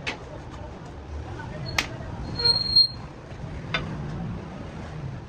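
Workshop sounds of metal being handled: a sharp knock, then a short, steady high-pitched squeal lasting about half a second, and another knock a second later, over a low background hum.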